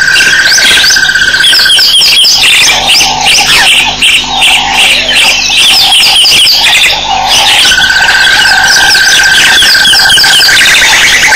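A dense chorus of high chirping animal calls, many short downward-sweeping chirps overlapping, over a steady high-pitched drone that stops about two seconds in and comes back near the end.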